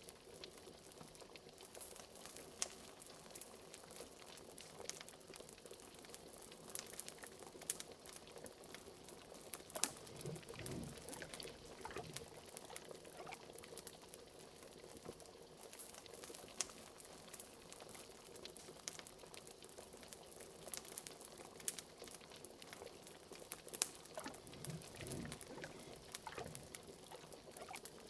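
Liquid bubbling steadily at a boil, like a cauldron, with scattered sharp pops and crackles and an occasional deeper gurgle.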